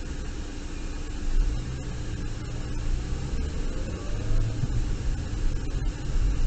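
Steady engine and road noise of a car driving, with a low engine hum rising out of the rumble about a second and a half in and again near the middle.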